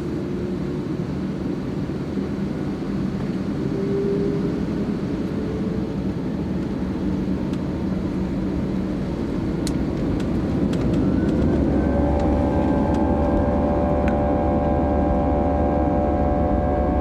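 Airbus A320's IAE V2527-A5 turbofan engines heard from inside the cabin on the takeoff run. The engine noise builds, and about eleven seconds in a whine glides up and settles into a steady multi-toned whine over a heavier rumble as the engines reach high thrust.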